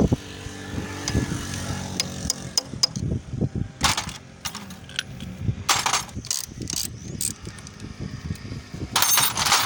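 Hand tools clicking and knocking against metal parts while a 70cc motorcycle's clutch plates are changed, with short rushing noises about four, six and nine seconds in.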